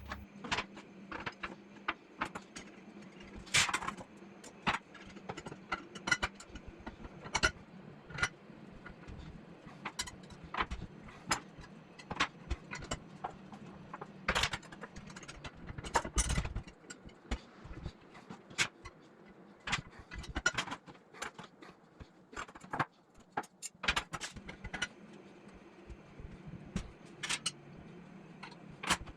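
Irregular light clicks and taps, like small metal parts and hand tools being picked up and set down, with a faint steady hum underneath.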